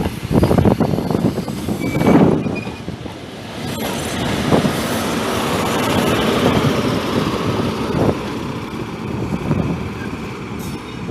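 A train moving through a railway station: a steady rolling rumble that swells in the middle and eases toward the end. Wind buffets the microphone in the first couple of seconds.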